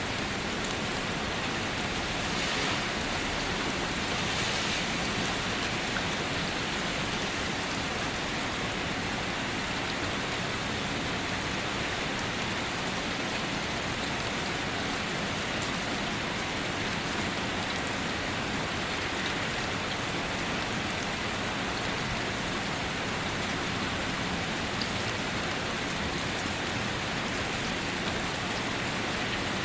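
Steady rain falling and pattering on a surface, an even wash of noise with occasional brighter drops.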